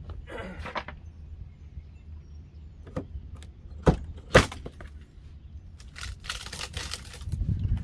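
Old wooden wall being torn out by hand: a short scrape, then three sharp knocks, then a longer rasping, crackling noise of wood being pulled loose near the end.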